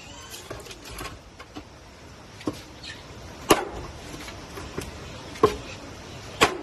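A handful of sharp knocks and snaps, irregularly spaced, over a steady hiss.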